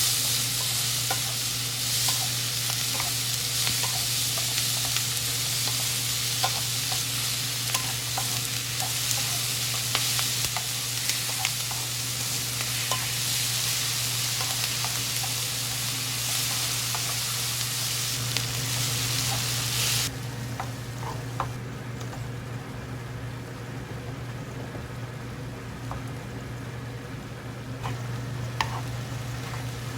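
Food sizzling in a hot pan while being stirred, with frequent light taps of the utensil against the pan. The sizzle drops off sharply about two-thirds of the way through, leaving quieter, sparser ticks and clinks.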